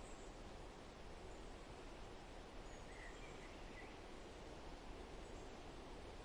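Faint, steady forest ambience: an even hiss of background noise, with a few faint, brief bird chirps about three seconds in.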